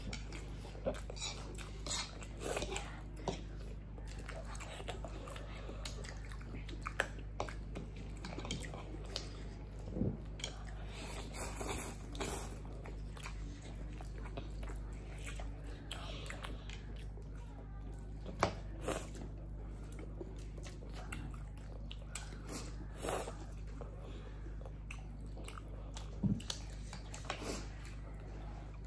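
Two people chewing noodles and sausage with wet mouth sounds, and sharp clicks of metal forks on plates every few seconds.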